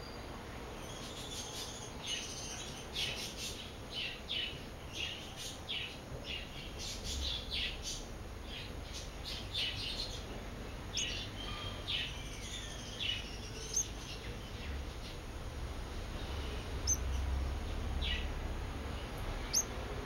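Small birds chirping: a run of short, high chirps, about two a second, that thins out to a few scattered chirps in the second half.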